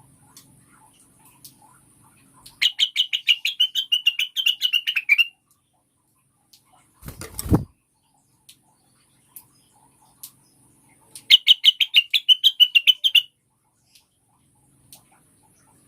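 Female blue-winged leafbird (cucak wilis, the 'rengganis') giving two rapid chattering trills of about eight sharp notes a second, each two to three seconds long, the first about two and a half seconds in and the second near eleven seconds: the female's call to a male. A short thump sounds between the two trills.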